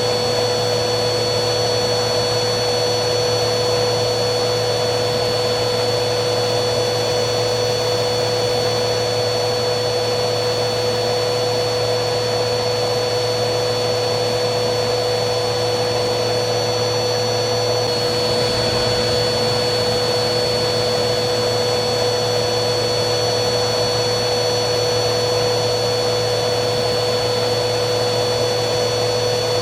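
Vacuum cleaner motor running steadily, a constant rushing noise with a steady high whine; the whine shifts slightly in pitch about two-thirds of the way through.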